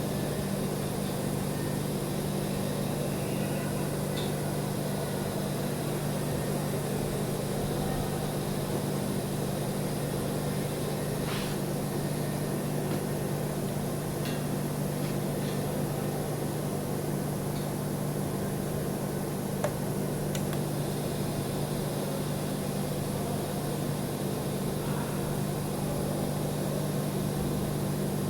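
Steady low machine hum holding two constant tones, with a few faint ticks.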